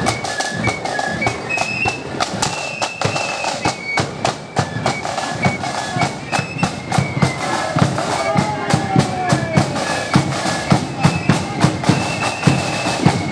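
Marching flute band playing: flutes carry a melody over rapid side-drum and bass-drum beats.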